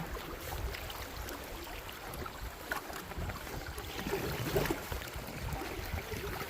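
River water flowing and splashing around a canoe under way, with a few short paddle-like splashes, over a low wind rumble on the microphone.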